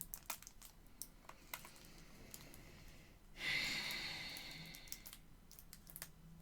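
Faint handling sounds from unboxing K-pop merchandise: scattered light clicks and taps, then about three and a half seconds in a rustling scrape that fades out over about a second and a half.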